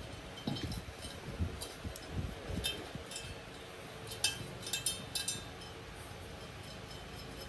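Scattered light clicks and clinks of small hard objects being handled, a dozen or so spread irregularly over several seconds, with a group of them about four to five seconds in.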